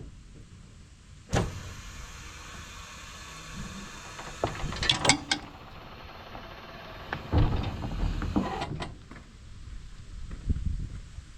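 A raised section of a New Holland 648 round baler being lowered: a steady hiss starts about a second in and runs for roughly seven seconds, with metallic clunks and knocks around the middle and again as it settles near the end.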